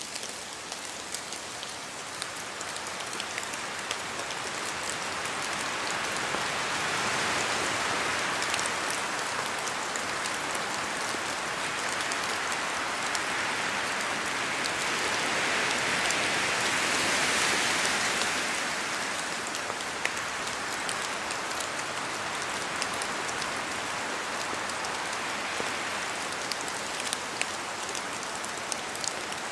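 Steady rain falling on forest trees, with scattered drops ticking sharply among the leaves. A gust of wind swells through the middle, building and then easing off.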